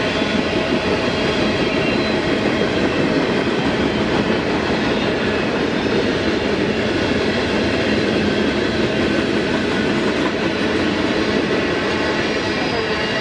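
Mixed freight train's cars rolling past at steady speed, wheels clacking on the rails.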